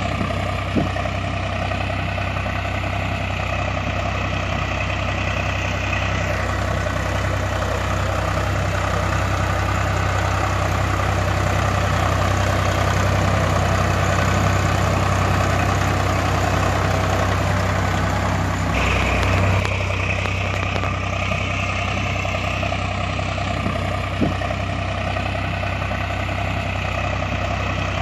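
Tractor engine running steadily with a low, even hum, with a short click about a second in and another near the end.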